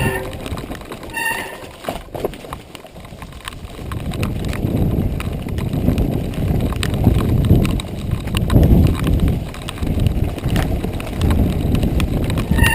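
Mountain bike clattering and rattling over a rough dirt trail, with scattered knocks and a heavy wind rumble on the microphone that dips for a couple of seconds early on. A short high squeal, like a brake, comes about a second in.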